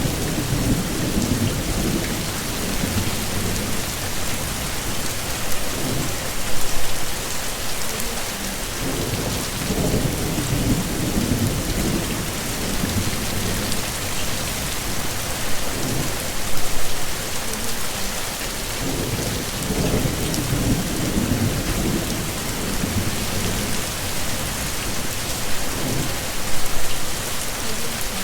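Heavy rain pouring steadily in a thunderstorm, with low rumbles of thunder swelling and fading every few seconds. Brief louder bursts come about every ten seconds.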